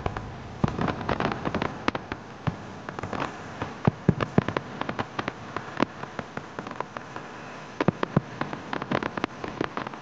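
Fireworks crackling: many sharp, irregular pops and snaps, several a second, with no deep booms.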